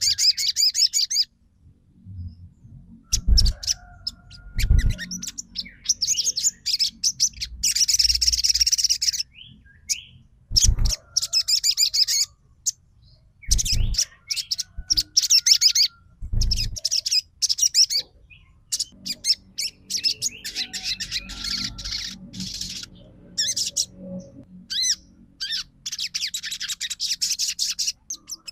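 Sogon songbird chattering in rapid, high-pitched bursts of a few seconds each with short pauses between, and a few low thumps in the gaps.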